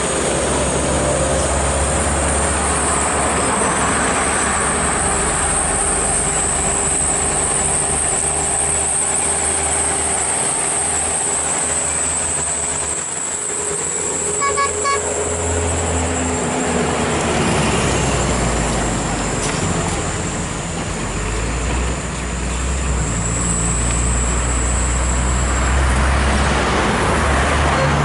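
Heavy loaded trucks' diesel engines running slowly in low gear, with steady road and traffic noise. A brief pulsed horn toot sounds about halfway through.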